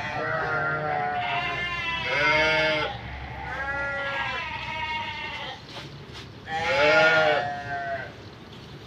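Several bleats from a goat or sheep, each call a pitched, quavering cry about a second long, the loudest one near seven seconds in.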